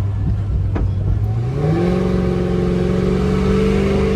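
Car engine heard from inside the car, its revs climbing about a second and a half in and then held at a steady pitch.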